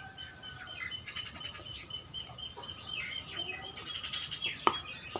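Small birds chirping over and over in the background, with one sharp clink about four and a half seconds in.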